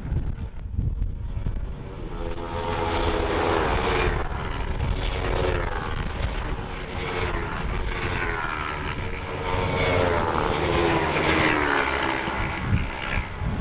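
Honda CB500 parallel-twin race bikes passing at racing speed, their engine notes rising and falling one after another as they go by.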